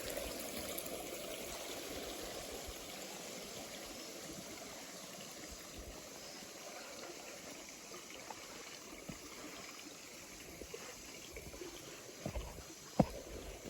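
Water from a small woodland waterfall trickling steadily and slowly growing fainter. A few sharp thumps near the end, the second the loudest.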